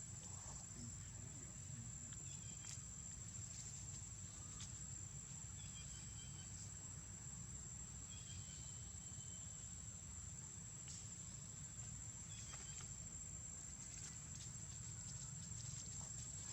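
Steady high-pitched insect drone, cricket- or cicada-like, over a low constant rumble, with a few faint clicks and short chirps.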